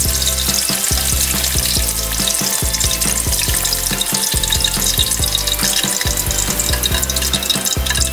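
Bell pepper pieces deep-frying in hot oil in a wok, a dense steady crackling sizzle, as they are turned with chopsticks.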